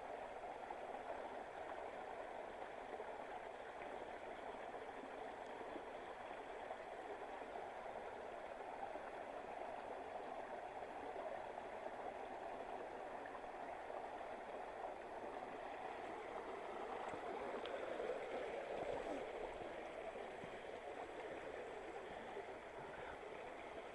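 Mountain creek flowing over a solid bedrock bed, a steady rush of water that swells a little about three-quarters of the way through.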